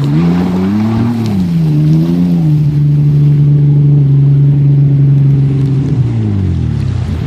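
A vehicle engine revving hard while trying to drive through a river. Its pitch rises and falls twice, holds high and steady for a few seconds, then drops near the end and climbs again.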